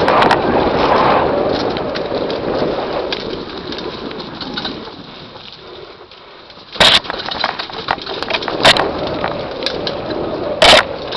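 Mountain bike rolling down a dirt trail. The rush of wind and tyre noise dies away over the first six seconds as the bike slows, then the bike starts rattling and a few sharp knocks follow as it hits bumps.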